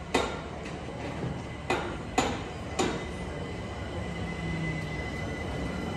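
London Overground Class 378 electric train pulling slowly into the platform, with several sharp clacks in the first three seconds, then a thin steady whine from about four seconds in as it slows.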